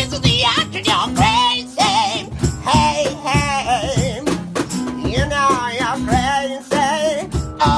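A man singing with vibrato over a strummed acoustic guitar, in an acoustic rock ballad.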